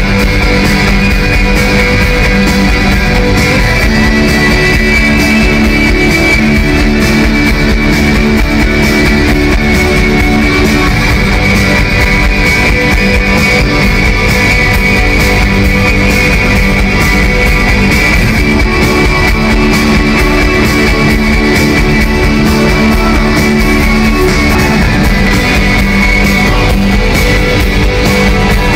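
Live rock band playing an instrumental passage: sustained electric guitar chords over drums, loud and steady throughout.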